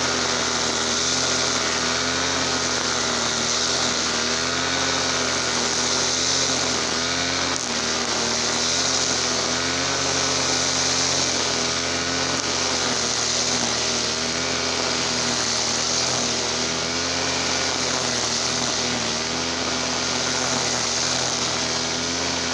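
Easyman TL33 brush cutter's small two-stroke petrol engine running steadily at speed, its pitch wavering slightly up and down.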